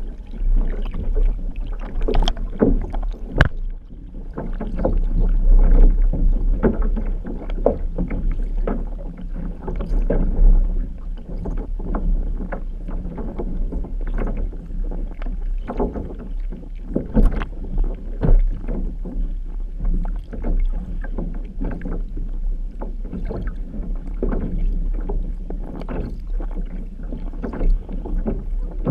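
Outrigger canoe under way: paddles striking and pulling through the water roughly once a second, over a constant low rumble of water rushing past the hull.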